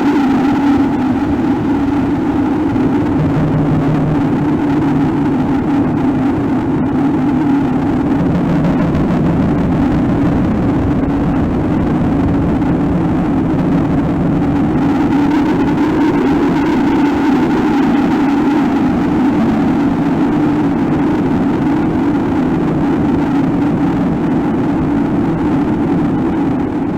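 Loud, steady droning noise from an experimental ambient noise composition, a low rumbling hum that holds one pitch with a deeper tone joining a few seconds in.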